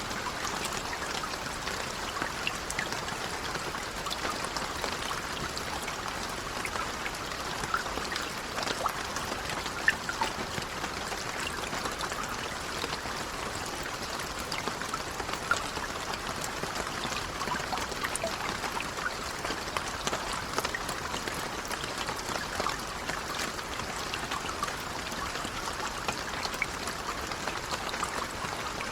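Steady, gentle rain, with many small drops pattering and an occasional louder drop standing out.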